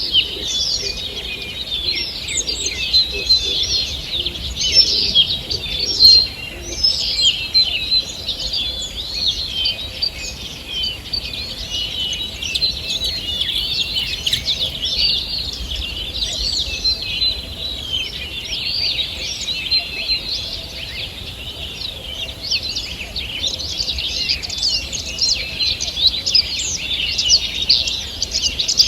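Morning chorus of many songbirds singing at once: a dense, continuous overlap of chirps and song phrases.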